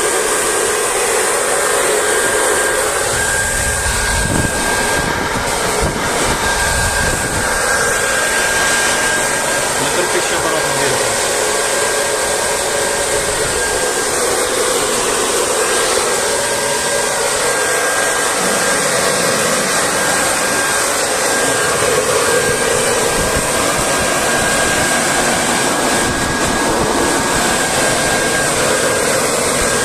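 Industrial high-pressure centrifugal fan with a 0.55 kW, 2800 rpm electric motor running steadily: a constant rush of air with a thin steady whine. A few low bumps come about four to eight seconds in.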